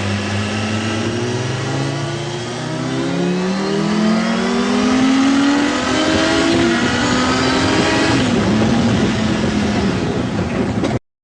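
An engine running and speeding up, its pitch rising steadily over several seconds, then cutting off abruptly near the end.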